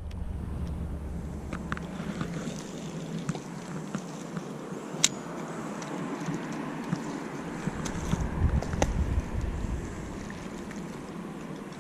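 Outdoor lake ambience: wind on the microphone and water, with scattered small clicks and taps. The sharpest click comes about five seconds in.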